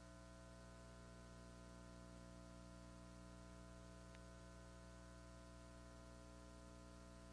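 Near silence: a steady electrical hum, with one faint click about four seconds in.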